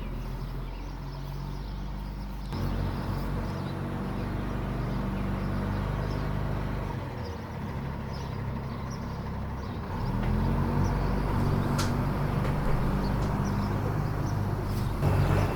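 Engine of a 5-ton military 6x6 truck running, revving up about ten seconds in and holding higher.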